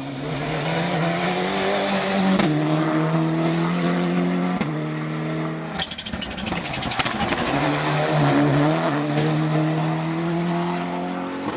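Race car engine accelerating hard up a hill climb course, its pitch climbing and then dropping at upshifts about two and a half and four and a half seconds in. Near the middle it lifts off with a burst of sharp crackles and pops, then pulls hard through the gears again.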